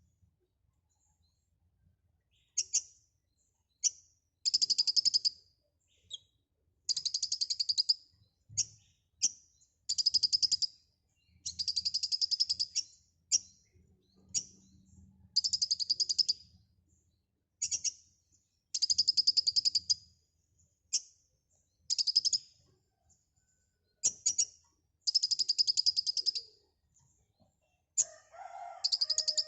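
Kolibri ninja sunbird singing energetically: repeated bursts of rapid, high, buzzy trills a second or so long, broken up by single sharp chips. A lower warbling call comes in near the end.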